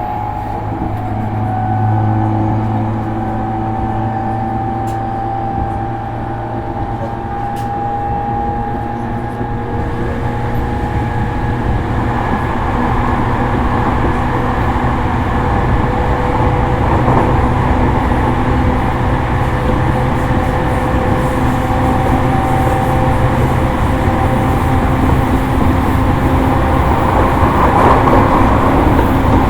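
JR East E231 series electric train running, heard from inside a motor car. Steady motor and inverter tones drift slowly in pitch over the rumble of wheels on rail, and the running noise grows gradually louder.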